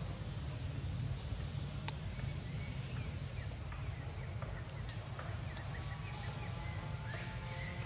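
Short high chirps and squeaks from an animal, scattered and coming more often in the second half, with a rising squeak near the end, over a steady low rumble.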